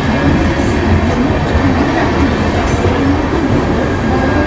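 Train running on the rails close by, a steady loud noise of wheels and cars on the track.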